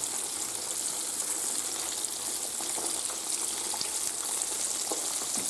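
Floured minced-meat patties frying in hot olive oil in a frying pan: a steady, high sizzling hiss.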